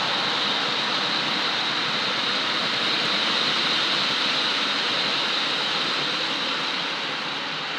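OO gauge model diesel locomotive running along the track: a steady whirr of its electric motor and wheels, fading a little near the end.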